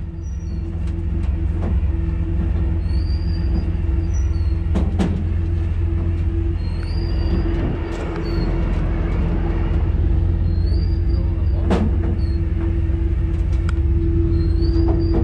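Steady low drone of a rollback tow truck's engine running while its winch pulls a non-running pulling truck up the bed, with a few sharp knocks and short high squeaks recurring about every two seconds.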